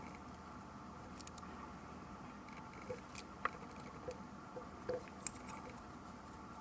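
Scattered small, sharp clicks and taps of tools and tiny parts being handled while a Canon PowerShot S110 compact camera is taken apart, including three quick clicks a little over a second in and a few more around the middle, over a steady faint hum.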